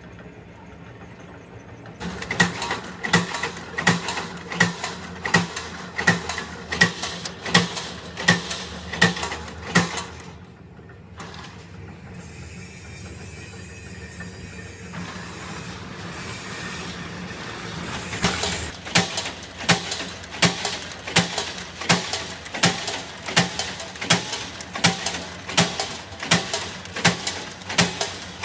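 Regular knocking, about one and a half strikes a second, that stops around ten seconds in for a stretch of steadier, quieter noise and starts again around eighteen seconds in.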